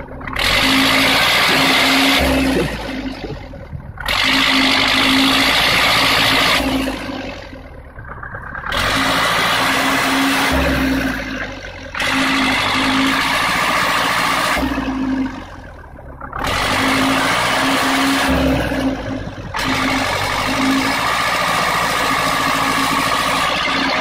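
A vehicle engine revving hard in repeated surges of a few seconds each, dropping back briefly between them.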